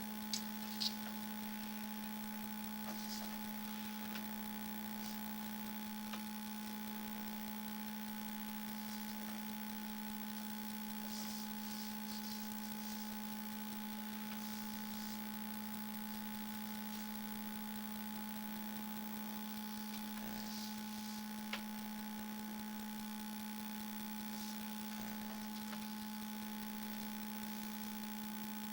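Steady electrical hum: a constant low drone with a fainter higher whine above it over a light hiss, with a few faint ticks.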